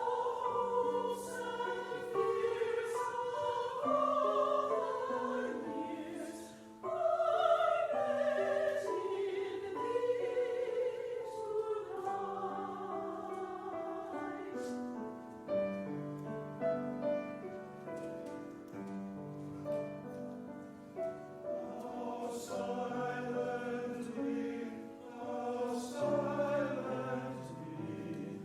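Chancel choir singing a Christmas choral piece in several voice parts, with held notes that shift together from chord to chord.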